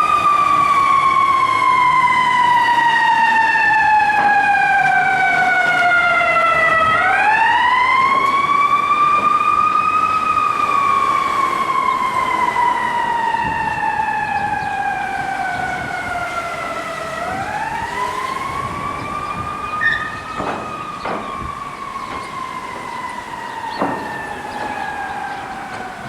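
Fire engine siren on a slow wail: the pitch climbs over a few seconds, then falls slowly over about seven, the cycle repeating about every ten seconds. It grows fainter toward the end as the engine moves off.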